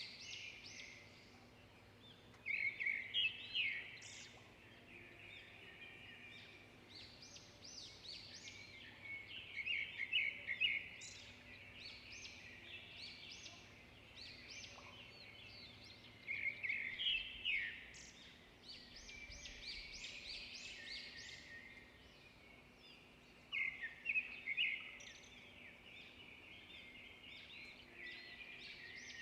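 Songbirds chirping and trilling in repeated bouts of quick, high notes, with quieter calls between the bouts.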